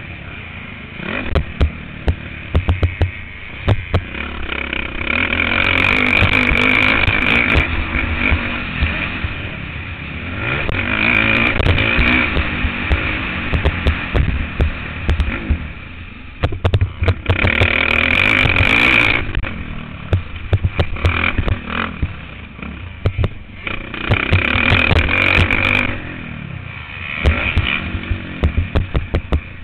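Motocross bike engine heard from an on-board camera, revving hard in repeated surges of a few seconds and dropping back between them as the throttle is opened and closed, with many sharp knocks and rattles from the bike.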